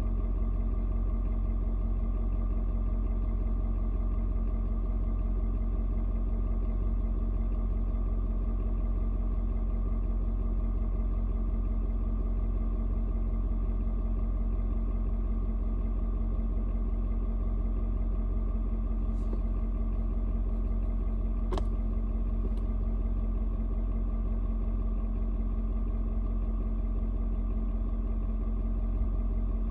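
Ford Super Duty's 6.7-litre Power Stroke V8 turbo diesel idling steadily while still cold after a cold start, settled into a mellower idle. A few light clicks come about two-thirds of the way through.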